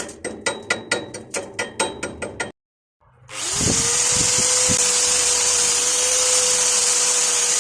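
Rapid, regular tapping, about five knocks a second, stops at a cut. About three seconds in, a power tool motor starts with a rising whine, then runs steadily with a loud hiss.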